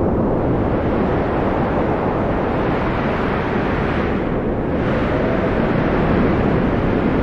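Strong wind blowing steadily, a deep rushing noise that eases slightly in the middle and builds again toward the end.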